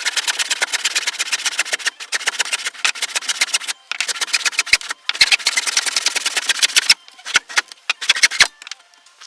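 Rapid runs of sharp knocks, about a dozen a second, in four bursts with short breaks, then a few separate knocks near the end.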